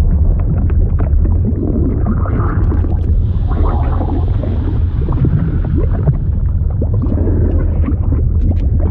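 Liquid sound effect: a steady deep rumble with many small scattered pops and clicks over it, like fluid churning and bubbling.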